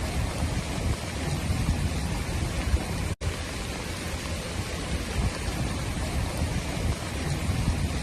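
Heavy rainstorm: a steady rush of rain noise with gusty wind rumbling on the microphone. The sound drops out for an instant about three seconds in.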